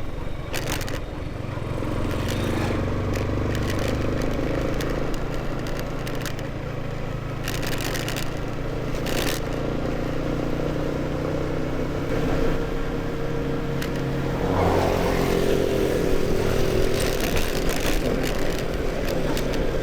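Motorcycle engine running while riding a rough dirt road, its note rising and falling with the throttle, over wind and road noise. A few sharp knocks and rattles come from the bumps.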